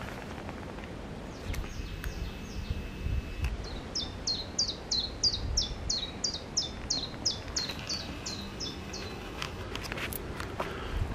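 A small songbird singing a long run of repeated, quickly falling high whistled notes, about three or four a second, stopping shortly before the end. Underneath runs a low rumble of wind on the microphone.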